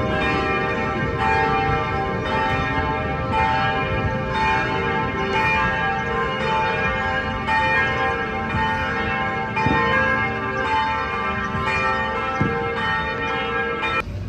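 Church bells ringing, several bells struck again and again, their tones overlapping and ringing on. The ringing cuts off abruptly near the end.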